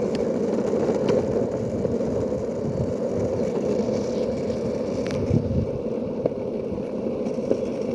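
Skateboard wheels rolling steadily over rough asphalt, a continuous grinding hum with a few small clicks and ticks from cracks or grit.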